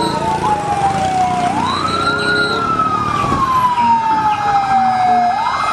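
Fire truck siren wailing in slow sweeps, falling in pitch, rising to a peak about two seconds in, then falling slowly before climbing again near the end, with fainter sirens behind it.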